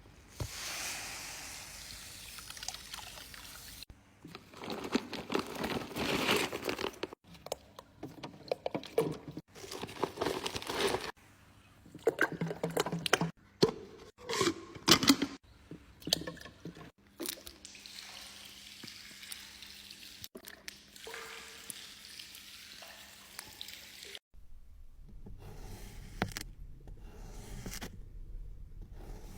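A string of short clips cut together, with liquid pouring and trickling among them; the sound changes abruptly several times.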